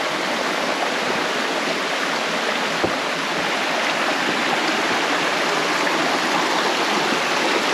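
Jungle stream rushing over rocks, a steady dense hiss of flowing water that grows slightly louder, with one faint knock about three seconds in.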